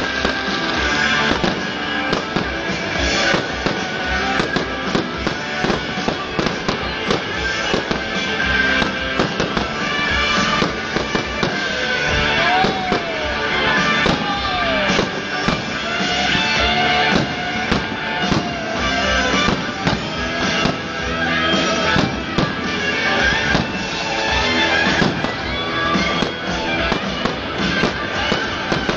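Fireworks going off in a steady stream of bangs over loud music.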